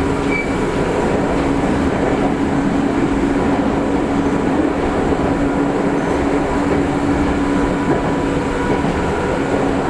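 Jōmō Electric Railway train running at a steady speed, heard inside the carriage: a continuous rumble from the wheels and running gear, with a steady hum over it.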